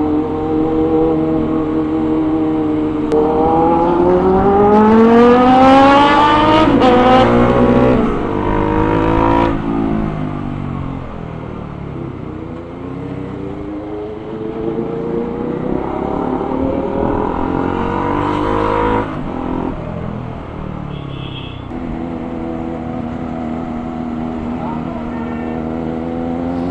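Motorcycle engine pulling hard through the gears, its pitch climbing steeply and dropping at each upshift, then climbing again before the throttle closes about two-thirds through, leaving a steadier, lower running note.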